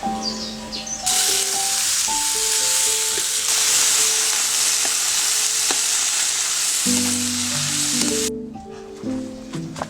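Food sizzling and frying in hot oil in a pan, a dense hiss that starts about a second in and cuts off suddenly near the end, over background music with steady melodic notes.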